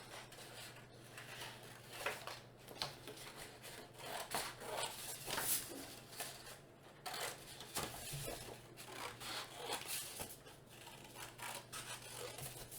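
Scissors cutting paper in quick, irregular snips, with the rustle of the paper being turned.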